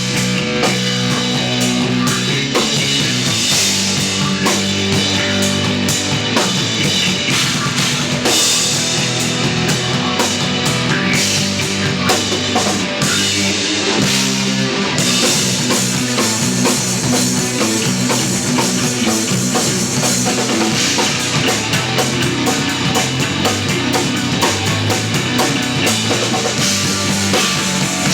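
Live instrumental post-rock played by a trio on electric bass, electric guitar and drum kit, with busy drumming and cymbals over sustained bass notes.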